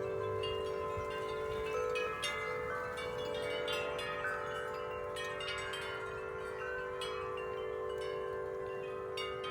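Several large tuned tube wind chimes, Corinthian Bells and Bells of Vienna among them, struck again and again by gusting wind. Overlapping strikes ring over deep tones that hold on underneath.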